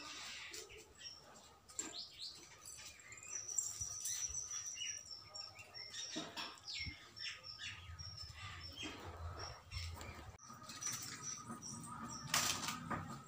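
Small birds chirping in short, high calls, one thin high note held for a couple of seconds.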